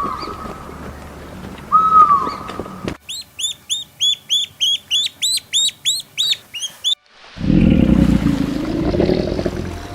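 A series of animal calls. First come two short arching calls about two seconds apart. Then a bird chirps rapidly, about four high notes a second, for some four seconds. Near the end comes a loud, low, rough animal sound.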